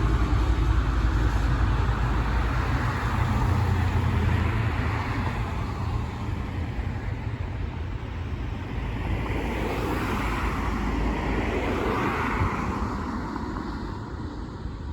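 Low rumble of passing vehicles that slowly fades, with a couple of swells of tyre-and-engine noise in the second half.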